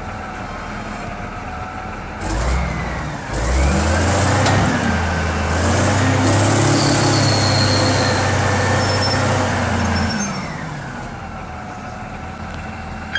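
Heavy machine's engine revving up about two seconds in, running hard and steady for several seconds, then dropping back to a lower, quieter running near the end.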